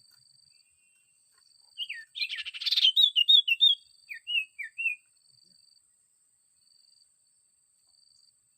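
Sirtu bird chirping: a dense burst of rapid calls about two seconds in, then a run of short sliding chirps that stops about halfway through. A faint thin high tone comes and goes behind them.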